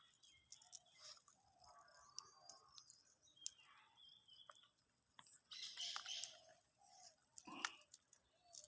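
Faint birds calling and chirping, short scattered calls over a steady high hiss.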